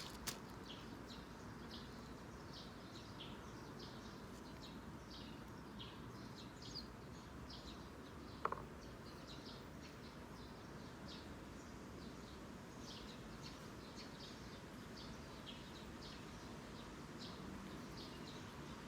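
Eurasian tree sparrows chirping in many short, repeated calls over a steady background hiss, with one brief sharp click about eight seconds in.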